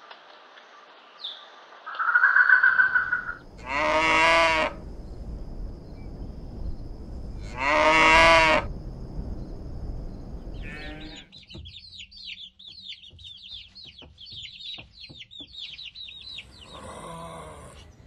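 A cow mooing twice, each moo about a second long and about four seconds apart. Before it comes a short loud single-pitched call, and after it a stretch of rapid bird chirping.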